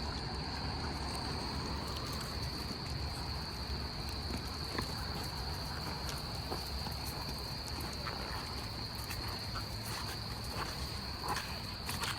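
Insect chorus: a steady, unbroken high-pitched trill, over a low background rumble with a few faint clicks.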